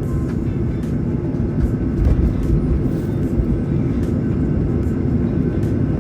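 Steady low rumble of a jet airliner's engines and air system heard inside the passenger cabin as the plane taxis ahead of takeoff, with a faint steady whine above it.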